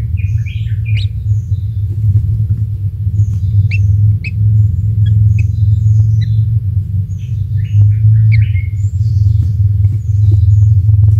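Many short, high bird chirps and quick rising calls, scattered irregularly, over a loud steady low hum.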